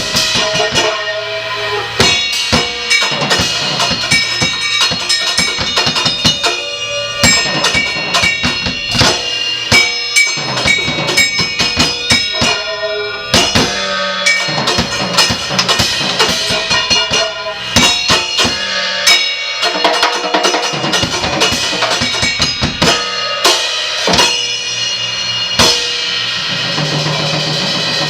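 Drum kit played in a free, experimental percussion improvisation: a dense, irregular stream of strikes on bass drum, snare and rims, with ringing tones sustained between the hits.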